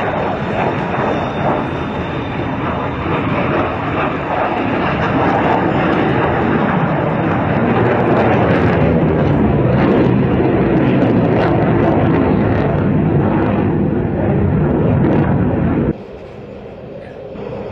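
Jet noise from a Tejas fighter in flight, a loud, dense rush that builds over the first several seconds and holds steady. It cuts off abruptly near the end.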